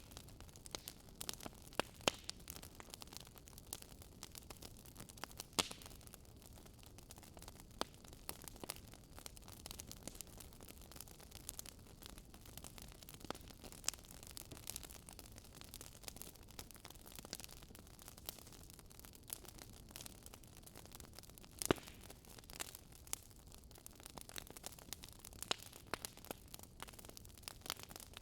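Wood fire crackling in a fireplace: a low steady hiss with irregular sharp pops and snaps, a few of them louder.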